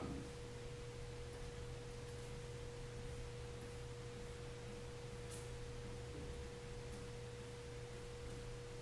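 A steady single-pitch tone with a low hum beneath it, both unchanging: electrical noise in the recording.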